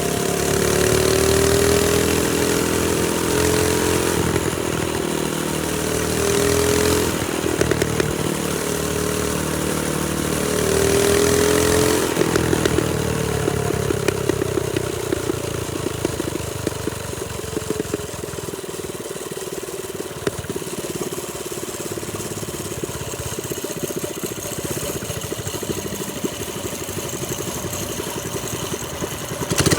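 Trailmaster Storm 200 mini bike's small engine running, its pitch rising and falling with the throttle for the first twelve seconds or so, then settling to a lower, steadier run.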